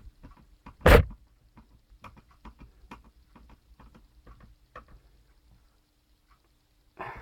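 Handling noises from putting a laptop back together: one sharp knock about a second in, then a run of small irregular clicks and ticks as screws are put in and turned with a screwdriver, and a brief rattle near the end.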